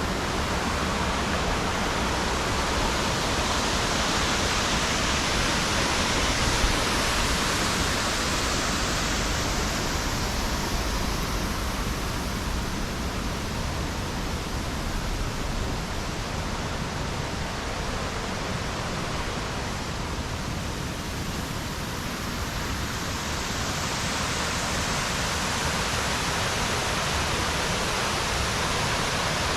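Waterfall: falling water crashing steadily into a pool, a dense continuous rush with no pauses.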